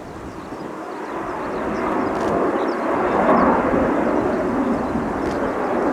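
Military jet aircraft's engine noise, a rushing sound that grows louder over the first three seconds and then holds steady, as a jet in the touch-and-go circuit comes closer.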